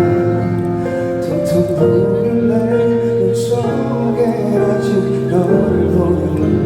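A slow ballad played live by the singer's band, with sustained chords and a sung melody over them.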